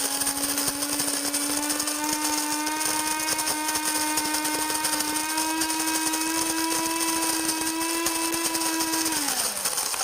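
Cuisinart DBM-8 Supreme Grind automatic burr mill grinding coffee beans on a medium setting: a steady motor hum over the crunch of the grind, its pitch creeping slightly upward. About nine seconds in, the motor winds down with a falling pitch and stops by itself once the timed dose for four cups is ground.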